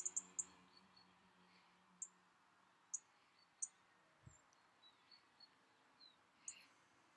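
Faint, short, high-pitched chirps of small birds, some single and some in quick runs of three or four. A low hummed chant tone fades out over the first two seconds, and there is one soft low thump about four seconds in.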